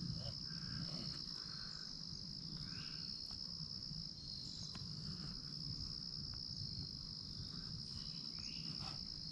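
Steady chorus of insects, a continuous high-pitched buzzing trill that holds unbroken throughout.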